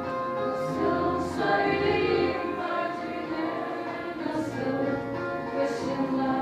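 Music: a group of voices singing together over instrumental accompaniment, with long held notes.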